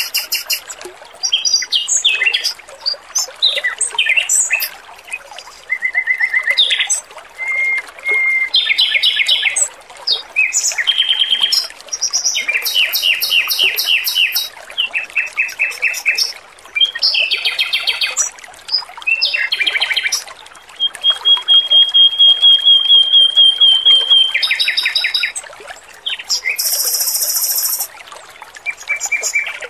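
Male red-billed leiothrix (Pekin robin) singing a varied string of fast trills and chirps, with one held, evenly pulsed trill lasting about three seconds in the middle, over a steady trickle of water.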